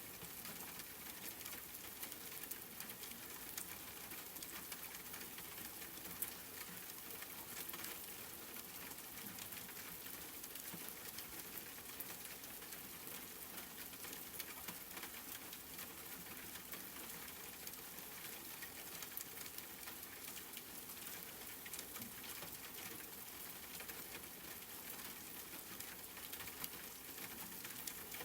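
Steady rain pattering, with many small drops ticking throughout as a soft, even hiss.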